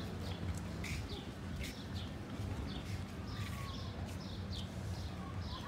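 Small birds chirping: many short, high, quickly falling chirps, several a second, over a steady low rumble.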